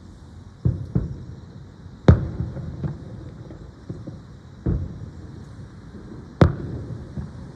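Aerial firework shells bursting in a string of deep booms, each followed by a short rumbling tail, about seven in all; the loudest comes about two seconds in and another sharp one near the end.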